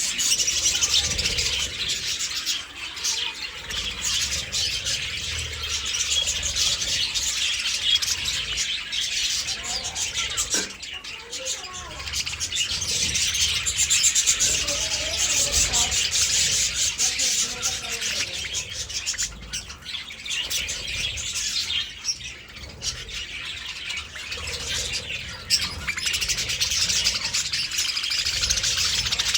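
Budgerigars chattering and warbling in a dense, continuous twitter of quick high chirps.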